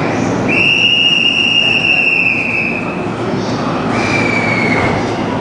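E257-series electric train moving out of the platform with a steady rumble. Its wheels give a high steady squeal that lasts about two and a half seconds and sags slightly in pitch, followed by a second, shorter squeal.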